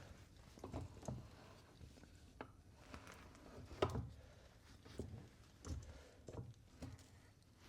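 Scattered light knocks and clicks from parts and tools being handled, about a dozen in all, the loudest a sharper knock about four seconds in.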